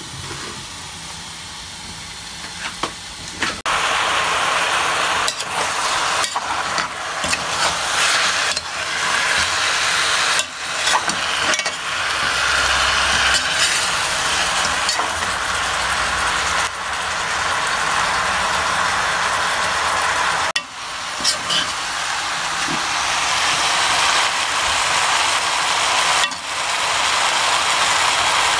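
Curry ingredients sizzling and frying in a hot pan while being stirred, a steady hiss with scattered small clicks and scrapes of the utensil. The sound breaks off briefly a few times where the footage is cut.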